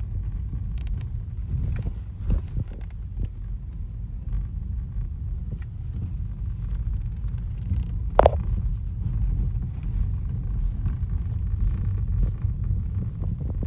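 Vehicle rumble with scattered light clicks and knocks from the worm-shaft assembly, and one sharper, louder clunk with a brief squeal about eight seconds in: the abnormal noise the worm-shaft assembly is making.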